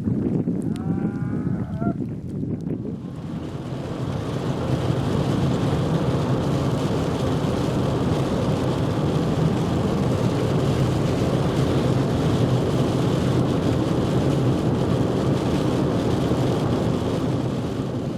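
Steady wind rushing across the microphone during a sleet and snow storm. About a second in there is a short, pitched call that bends in pitch.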